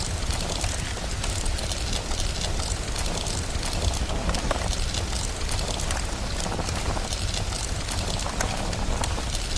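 Steady rain hiss over a continuous low rumble, with many small sharp crackles scattered through it like a wood fire crackling.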